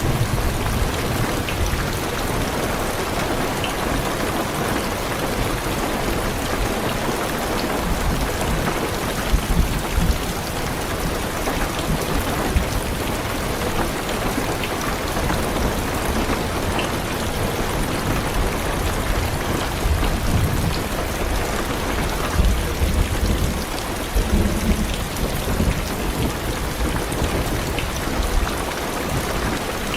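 Heavy rain drumming steadily on a car's roof and windows, with low rumbles of thunder rolling in about a third of the way through and again twice later on.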